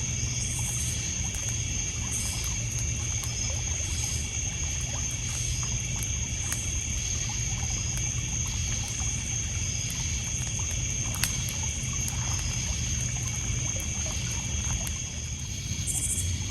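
Night ambience by a lakeside campfire: a steady chorus of crickets and other insects with a high chirp pulsing about once a second, water lapping on a pebble shore, and scattered small crackles from the burning wood, one sharper about eleven seconds in.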